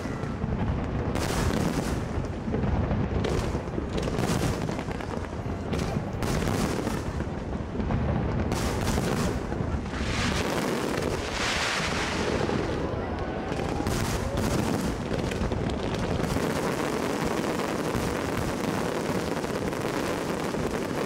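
Fireworks display: aerial shells bursting one after another in a rapid, continuous barrage of bangs and booms, growing into a dense crackling roll near the end.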